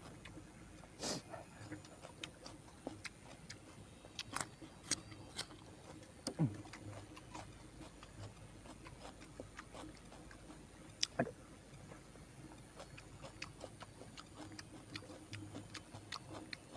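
A person eating grilled tilapia: scattered mouth clicks and lip smacks while chewing, with a few louder sharp smacks.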